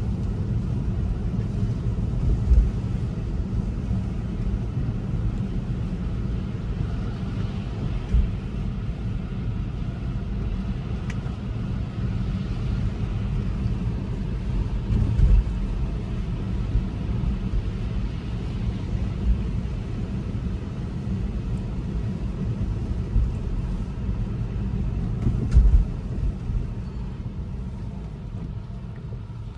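Steady low road and tyre rumble inside the cabin of a Tesla Model 3 driving on a wet road, with no engine sound. It is broken by a few short thumps.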